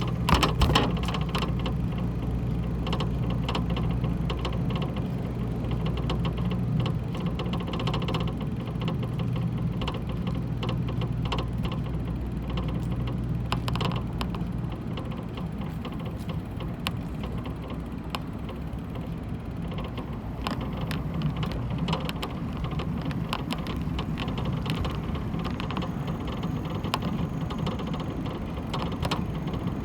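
A low steady mechanical hum that weakens about halfway through, with scattered clicks and rustling noise.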